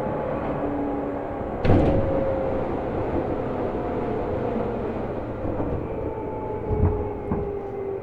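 Seibu New 2000 series electric train heard from inside the car while running, its motor tones gliding slowly lower as the train slows, over a steady wheel-and-rail rumble. A sharp knock about two seconds in and a couple of lighter knocks near the end come from the wheels over the track.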